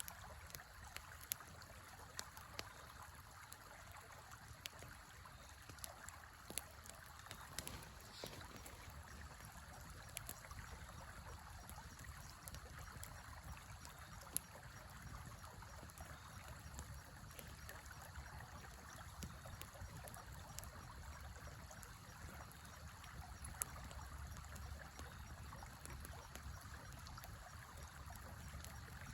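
Steady rushing of a river, with a campfire crackling and giving off sharp irregular pops.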